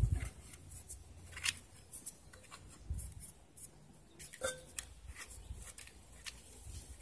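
Scattered light clicks, ticks and rubbing from hand work on the inside of an old arc welder: wires, terminals and parts being handled with small tools.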